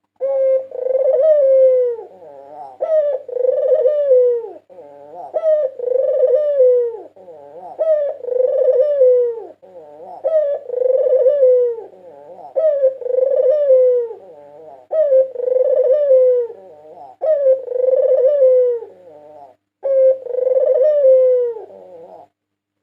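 A white Barbary dove (puter putih) cooing its song in a steady series of about nine phrases, one every two and a half seconds, each ending on a falling note.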